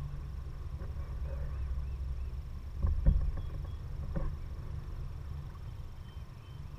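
Kayak being paddled: water and paddle noise over a low steady rumble, with a cluster of knocks about three seconds in and another about a second later.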